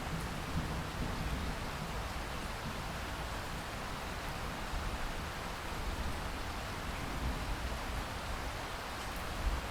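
Steady rainfall, a continuous even hiss, with a low rumble underneath that swells now and then.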